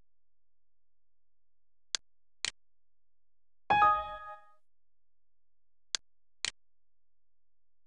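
A short electronic chime, a chord of several tones ringing out and fading within about half a second, heard a little before the middle. Around it come sharp clicks in pairs about half a second apart, every four seconds.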